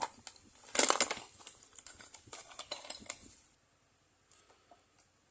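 Small metal bolts clattering and clinking together in a quick, irregular run that stops suddenly about three and a half seconds in, followed by a few faint ticks.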